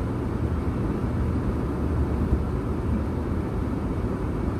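Strong dust-storm wind blowing across the microphone, a steady low rumble with no breaks.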